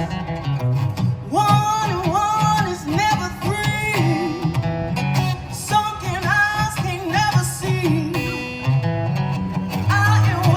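A woman singing a slow song with guitar accompaniment.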